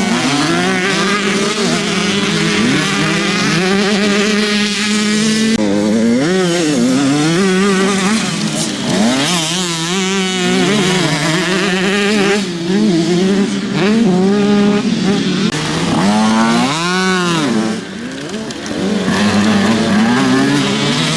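Several motocross bikes racing at once, their engines revving up and down and overlapping as the riders work the throttle. One bike revs up and back down loudly late on.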